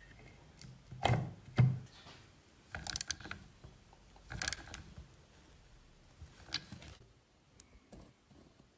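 Workshop handling of metal parts and tools: two heavy clunks about a second in, then several short bursts of metallic clicking.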